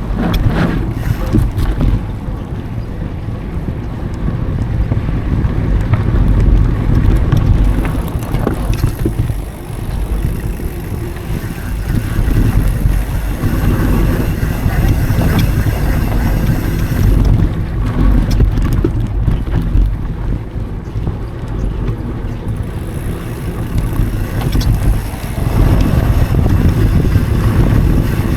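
Mountain bike riding on dry dirt singletrack: wind buffeting the action camera's microphone and tyres rumbling over the trail, with scattered clicks and rattles from the bike.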